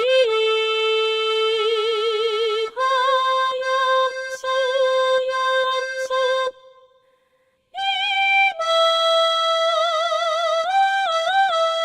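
Synthesized female singing voice performing a Japanese min'yo folk song in long held notes with vibrato, over a simple accordion accompaniment. The sound drops out briefly about six and a half seconds in, then the voice comes back.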